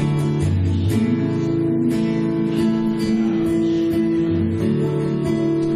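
Acoustic guitar strumming chords, instrumental worship music with no singing.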